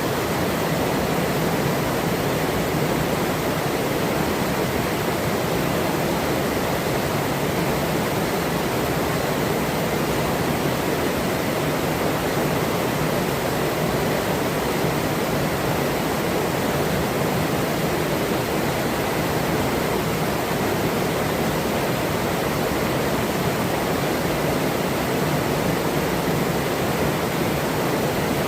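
Forest river flowing steadily, a constant rushing of running water with no breaks or changes.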